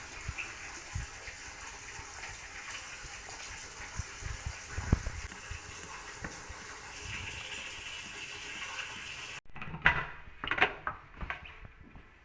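Water running steadily, as from a tap, with a few faint clinks; it cuts off abruptly about nine seconds in, followed by several short knocks.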